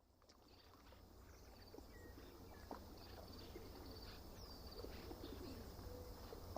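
Faint birdsong by a lake fading in from silence: scattered short high chirps and a falling whistle about four seconds in, with low wavering calls and a soft low rumble underneath.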